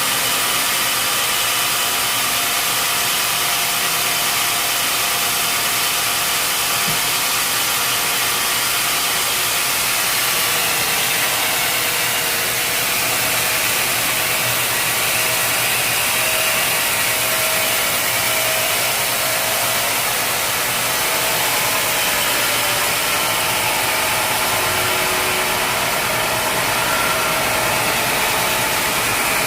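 Sawmill machinery running steadily, a constant mechanical drone with steady high tones over a thick noise.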